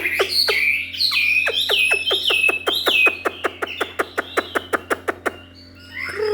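Chinese hwamei (leucistic bird) calling: a quick series of repeated whistled notes, each sliding downward, mixed with a rapid run of sharp clicks.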